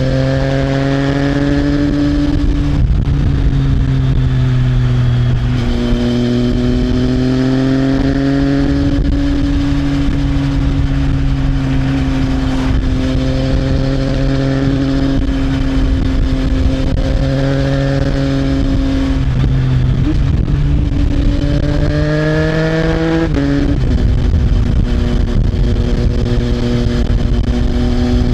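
Triumph Trident 660's inline three-cylinder engine through an Arrow aftermarket exhaust, heard from on the bike under way. Its pitch climbs and drops abruptly about three seconds in, as at a gear change, holds steady at cruise, then climbs again and drops sharply near the end. A low rush of wind noise runs underneath.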